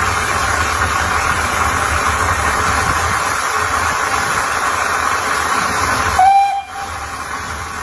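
A train running with a steady rushing noise over a low rumble, then a short loud toot about six seconds in, after which the noise falls away.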